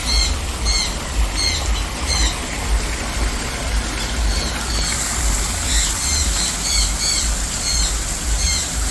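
Aviary birds calling: short, high-pitched, hooked chirps repeated about two to three times a second, over a steady low rumble.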